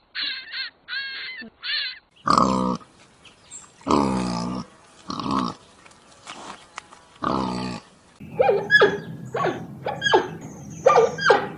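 A run of animal calls from different animals, one after another. First come a few short repeated calls. Then come four loud, drawn-out calls, each a second or less. From about eight seconds in there is a quick series of sharp, pitch-sweeping cries over a low hum.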